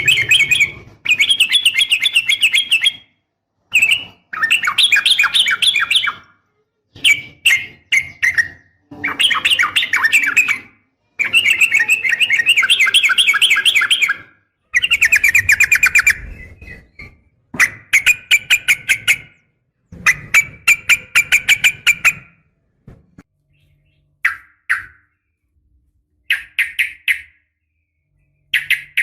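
Yellow-vented bulbul (trucukan), sold as a female calling to a male, giving long, rapid chattering trills. Each phrase lasts one to three seconds, with short gaps between. The phrases turn into shorter, sparser bursts in the last few seconds.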